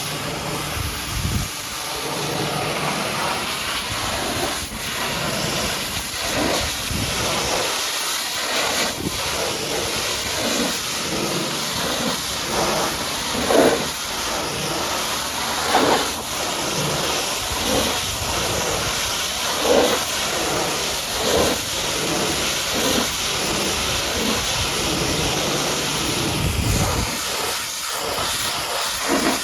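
High-pressure washer jet spraying water onto a muddy truck: a steady hiss with brief louder surges every few seconds.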